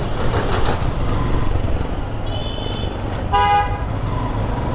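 Vehicle horns honking in jammed road traffic over a steady low rumble of engines. A fainter horn sounds a little after two seconds, then a short, loud blast comes about three and a half seconds in.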